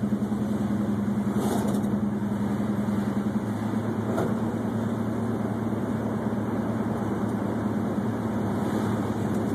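Classic car's engine running steadily on the move, a constant low hum with road noise, heard from inside the car.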